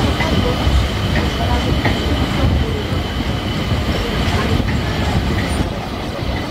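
Local passenger train running: a loud, steady rumble with a thin, steady high whine over it.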